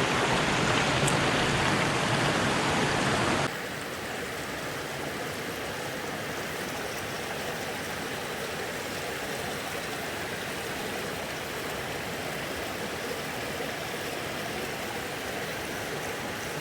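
Steady rushing of a rocky creek and small waterfall pouring into a rock pool. The rushing drops suddenly to a softer level about three and a half seconds in.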